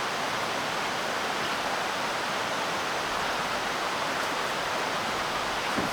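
Steady, even rush of water, with no change in level.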